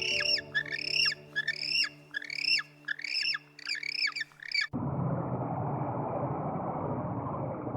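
A bird giving a rapid series of harsh squawking calls, two or three a second, each rising and then dropping in pitch, over soft sustained music notes. The calls cut off abruptly just before the last third, giving way to a steady rushing noise.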